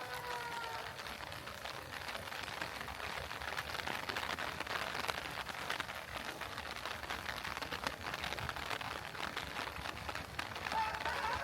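Steady heavy rain falling, a dense patter of drops. A faint tune is heard briefly at the start and comes back near the end.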